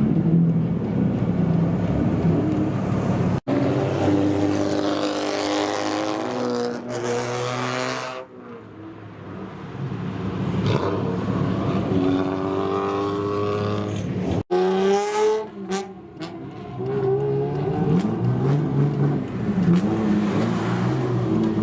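Old Japanese street-racer cars (kaido racers) revving and accelerating. Engine pitch climbs in several pulls, around 4–8 s, 12–16 s and again near the end. The sound breaks off abruptly twice, at cuts between clips.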